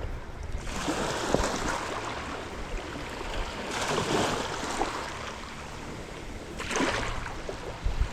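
Sea water washing in three surges, each lasting a second or two, over a steady low rumble.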